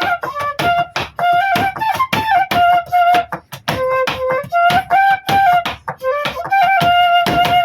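Bansuri bamboo flute playing a folk melody of held and stepping notes, over sharp rhythmic percussive beats.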